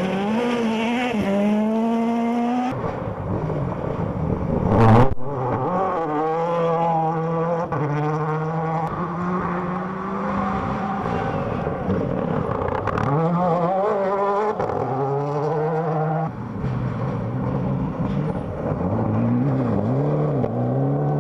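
Rally car engines revving hard, the pitch climbing and dropping again and again through gear changes. There is a single loud, sharp bang about five seconds in.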